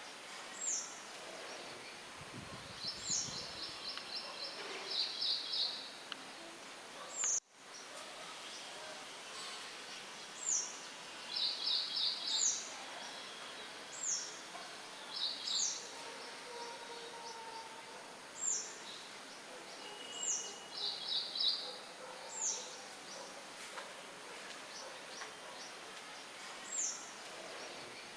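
Songbirds chirping over a steady hiss of wind: short, high chirps that sweep downward, repeating every second or two, mixed with quick trilled phrases. The whole sound drops out for a moment about seven seconds in.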